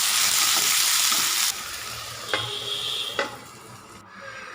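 Chopped tomato, onion and capsicum sautéing in hot oil in a pan, sizzling as they are stirred. The sizzle cuts off sharply about a second and a half in, leaving a quieter stretch with a short high tone between two clicks.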